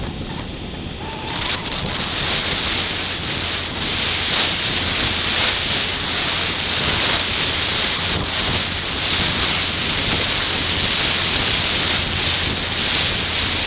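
Wind buffeting the built-in microphone of an action camera on a motorcycle at speed, a loud hiss-and-rush that drowns out the engine. It jumps up a little over a second in, rises again around four seconds as speed builds, then holds steady.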